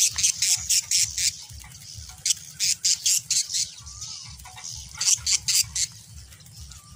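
Birds squawking: short, sharp, high-pitched calls in three quick clusters of about four to six, over a low steady rumble.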